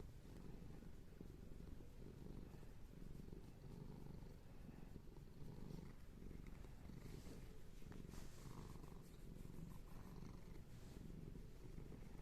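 A domestic cat purring: a quiet, continuous low rumble that swells and fades slowly every second or two.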